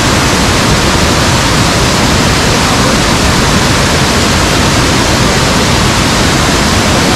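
Loud, steady rush of water pouring close by, an even roar with no breaks or changes.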